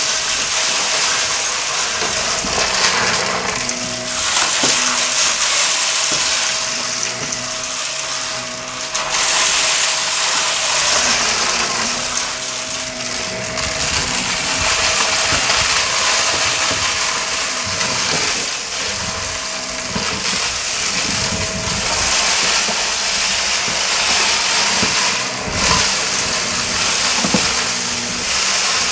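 Shark upright vacuum cleaner running on carpet, its motor giving a steady whine under a loud rushing hiss. The hiss swells and eases every few seconds as the vacuum is moved, with scattered crackles of grit being picked up.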